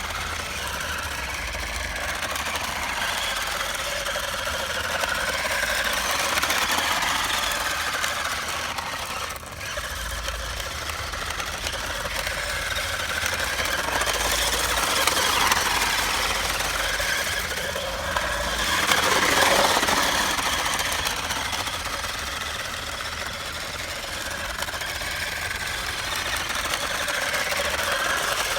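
Small electric motor of a 12-volt RC drift car whining and buzzing as it is driven, its pitch wavering up and down with the throttle; the owner says the motor is going out.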